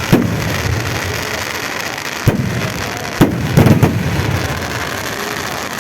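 Fireworks going off: a bang just after the start, another about two seconds in, then a single bang and a quick cluster of bangs between three and four seconds in, over a steady background hiss.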